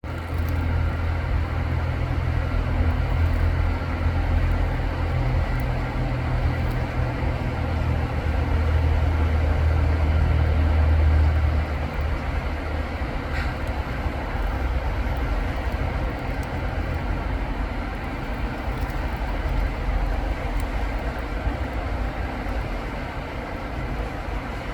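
Road traffic on a wet street: a heavy vehicle's low engine rumble dominates, easing off about twelve seconds in, over a steady hiss of tyres on the wet road.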